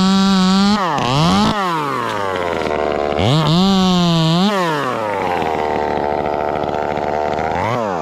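Ported Echo 2511T top-handle chainsaw, a small two-stroke, running at full throttle, then dropping off and blipping the throttle twice, with a second spell of full revs for about a second. It then settles to a steady idle and is shut off at the very end.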